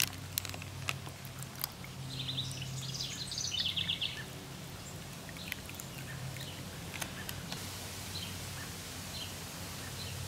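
A small bird singing quick chirping trills about two to four seconds in, over a steady low hum, with a few faint clicks.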